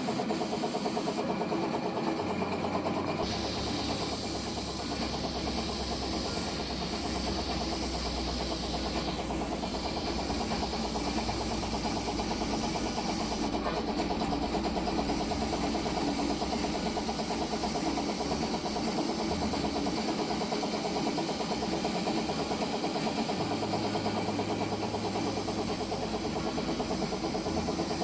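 Air compressor running steadily to feed a paint spray gun spraying metallic silver paint, with the gun's high hiss of air and paint, which stops briefly twice as the trigger is released.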